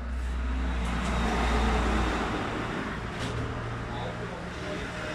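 Road vehicle noise: a motor vehicle running close by, swelling to its loudest about a second and a half in, then easing.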